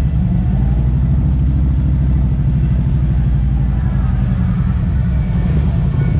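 Motorcycle engine rumbling steadily and loudly, a deep, even running sound.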